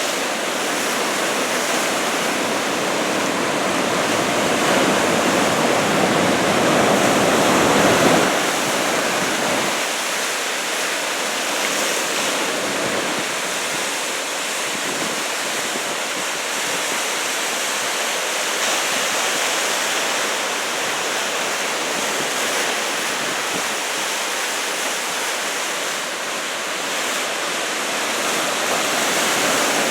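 Ocean surf from a large typhoon swell breaking along the shore, a continuous wash of wave noise. A breaking wave swells louder over the first several seconds and dies back about ten seconds in.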